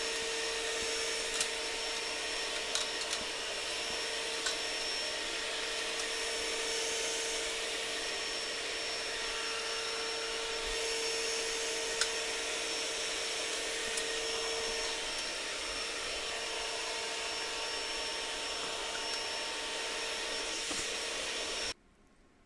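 A steady mechanical hum with a faint held whine, and a few light clicks and taps over it. It cuts off suddenly near the end.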